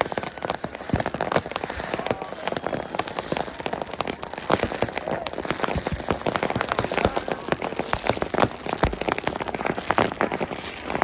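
Dense crackling of many fireworks and firecrackers going off at once: a rapid, irregular patter of pops, with a few louder bangs here and there.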